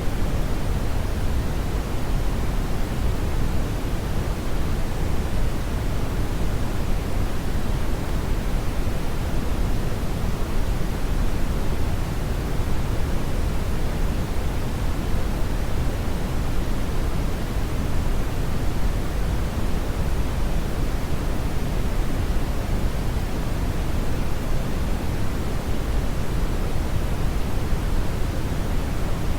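Steady brown noise: a continuous, even rushing hiss weighted heavily toward the deep low end, with no changes or events.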